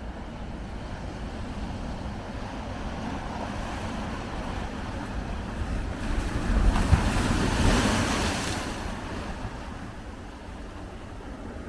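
Big ocean waves breaking, with one large wave crashing about six seconds in and washing away over the next few seconds. Wind rumbles on the microphone.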